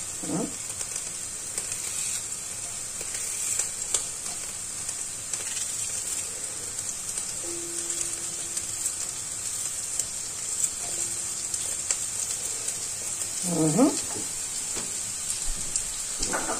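Onion pieces sizzling in heating olive oil in a sauté pan: a steady hiss dotted with small crackles.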